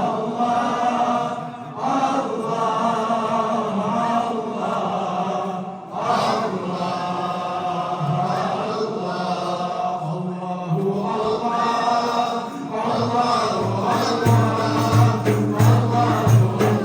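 Sufi ilahi chanted by a group of voices in long melodic phrases, with short breaks between lines. A rhythmic low beat with light jingling percussion joins near the end.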